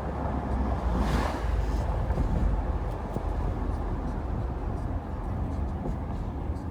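Mercedes R129 500SL's 5.0-litre V8 with its muffler deleted, cruising at light throttle with a steady low exhaust rumble, heard from the open cabin with wind and road noise. A brief rush of noise comes about a second in.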